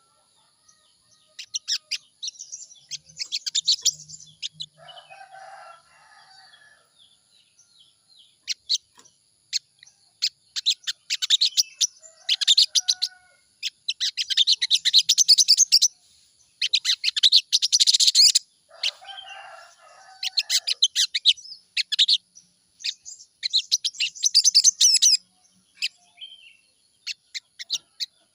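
Sogon bird calls used as a lure to make a caged sogon start singing: bouts of rapid, chattering high chirps that start and stop again and again. A lower, rougher call sounds twice, about five and nineteen seconds in.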